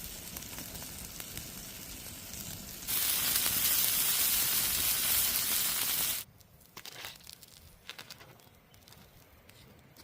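Food sizzling as it fries in hot oil, a steady hiss that turns louder about three seconds in and stops abruptly a little after six seconds. After that come quieter scattered clicks and crackles.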